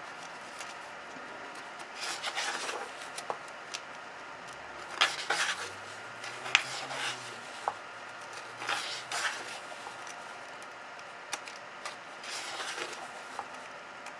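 Paper pages of a paperback coloring book being turned by hand, about five rustling swishes spaced a few seconds apart, with a few light taps and clicks of the pages and cover being handled.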